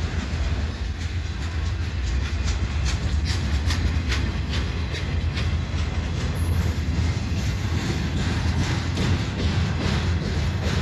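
Freight train cars rolling past close by: a steady low rumble of steel wheels on rail, with repeated clicks as the wheels cross rail joints.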